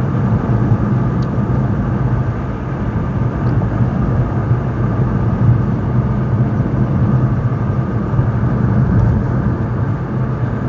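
Steady road noise inside a moving car with the window rolled down: tyre and engine rumble with outside air noise coming in, picked up by a clip-on microphone without its windscreen.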